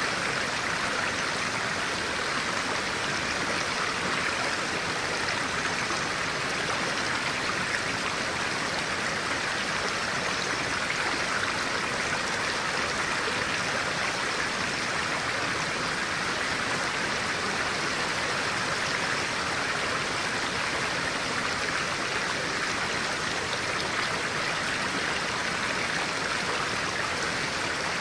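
Stream water rushing and babbling steadily over rocks, an even, unbroken wash of sound.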